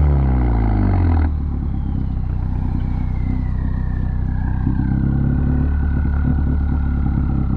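2017 Ford Focus ST's turbocharged 2.0-litre EcoBoost four-cylinder, with its straight-piped exhaust, coming off a rev and dropping abruptly to idle about a second in, then idling steadily. A faint high whine falls slowly in pitch over the idle.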